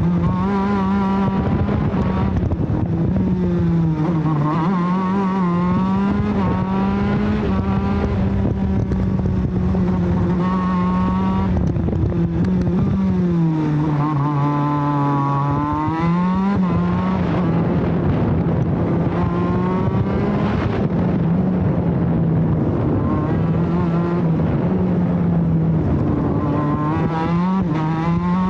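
TM Racing K9B 125 cc two-stroke shifter kart engine on a flying lap, heard from on board: it revs up through the gears and drops on braking and downshifts, again and again. Its deepest slowdown comes about 13 seconds in, picking up again about three seconds later.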